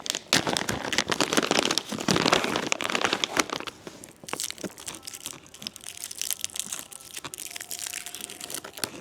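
Plastic candy wrapper crinkling and tearing as a coconut toffee is unwrapped, dense for the first few seconds and then in scattered crackles.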